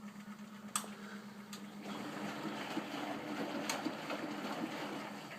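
Bendix 7128 washing machine running: a steady motor hum, with a louder rushing noise building up about two seconds in and a couple of sharp clicks.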